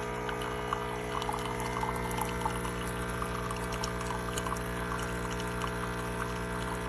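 Cuisinart Barista Bar coffee maker (SS-4N1NAS) brewing: its pump buzzes loudly and steadily with a rapid rattle, like jackhammering, while coffee pours into the cup. The owner takes the constant racket for a sign that something isn't right, blaming a terrible motor.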